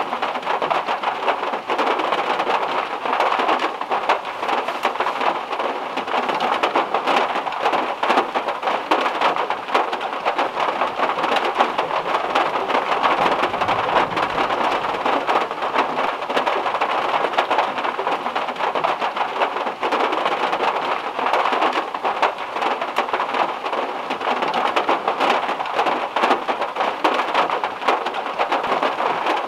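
Heavy rain falling steadily, a dense patter of drops on a car's metal roof, with a faint low rumble of thunder about halfway through.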